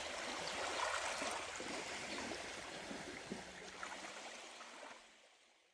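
Water running and gurgling, with small splashy trickles throughout, fading out near the end.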